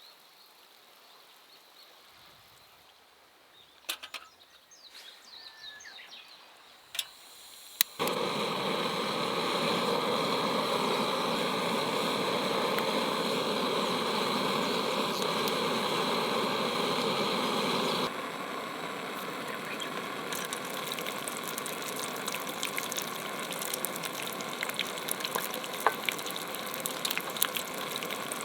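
Fish deep-frying in hot oil. A few light clicks, then a loud sizzle starts suddenly about eight seconds in. From about eighteen seconds it drops to a softer, crackling sizzle with many small pops.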